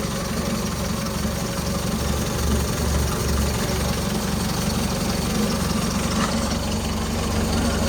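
Old tractor's engine idling cold with the choke on, a steady low-pitched running note with a slow throb that evens out about halfway through.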